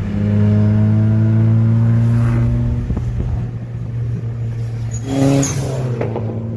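A car engine running with a steady low drone.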